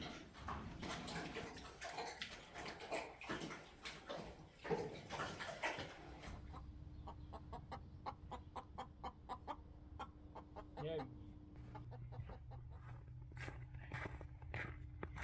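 Domestic chickens clucking, with a quick run of short clucks and calls; a steady low hum comes in about six seconds in.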